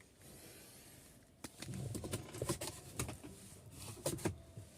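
Faint hiss, then from about a second and a half in a run of light rustling, clicks and knocks, like things being handled inside a car.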